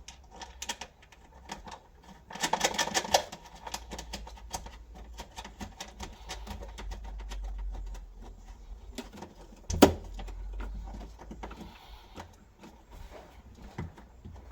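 Hand tools at work on a bolt: a burst of rapid, even ratchet clicks about two seconds in, scattered clicks and rattles of metal on metal, and one sharp metal knock just under ten seconds in.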